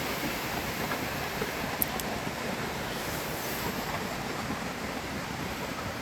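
Steady rushing of river water flowing, with a single sharp click a little under two seconds in.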